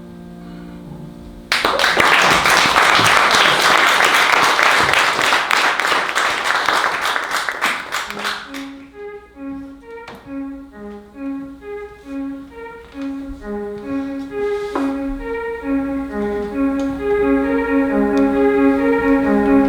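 The last held chord of a song dies away, then an audience claps for about seven seconds. As the clapping fades, an instrument starts a new tune, playing single notes in a steady repeating pattern that builds toward the end.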